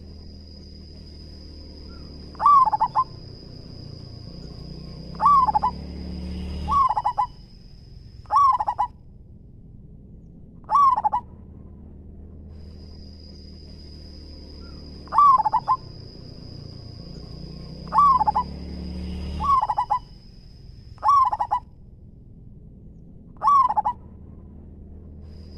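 Zebra dove (perkutut) cooing in short phrases of quick rolling notes, one phrase every two to three seconds. A steady high-pitched whine comes and goes behind it, over a low hum.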